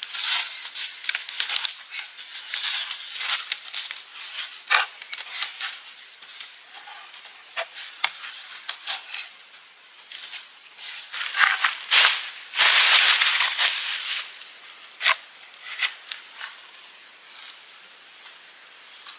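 Dry rustling, crackling and snapping from hands working dry plant material, irregular clicks throughout with a longer loud rustle about two-thirds of the way in. A faint steady insect trill runs behind.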